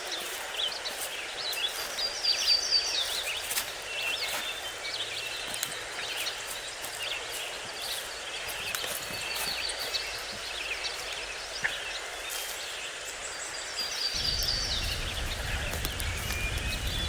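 Small birds chirping and singing over a steady outdoor hiss. A low rumble comes in near the end.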